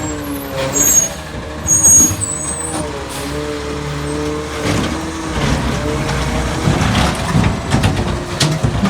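Autocar garbage truck running, with short high squeals about a second and two seconds in and a series of clanks near the end.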